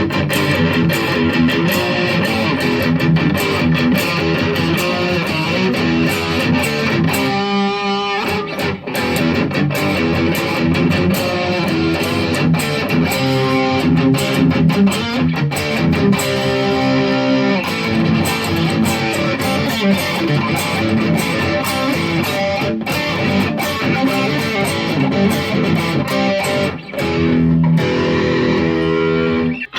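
Squier Affinity Stratocaster electric guitar played through its bridge single-coil pickup with a distorted metal tone, running through riffs with a brief break about eight seconds in and another near the end.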